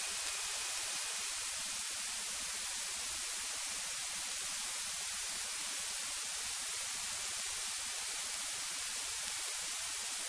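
Steady, even hiss of electronic static on the aircraft's radio and intercom audio feed while no one is transmitting, strongest in the high frequencies.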